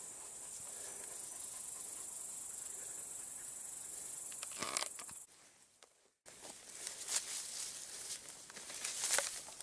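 Steady high-pitched insect chorus chirring for about five seconds, then cutting off. After a brief gap comes irregular rustling and crackling, like dry vegetation being trodden or handled.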